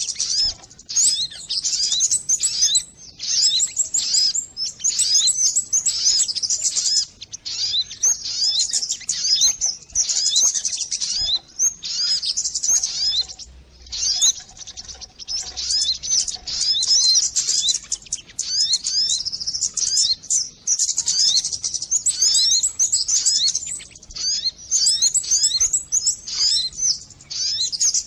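Lure recording of sogon birds calling: dense, rapid high chirps and twitters coming in bursts a second or two long with brief gaps between them.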